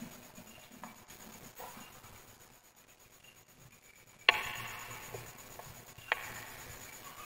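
Wood fire crackling with scattered small pops, then a sharp loud pop about four seconds in and another about six seconds in.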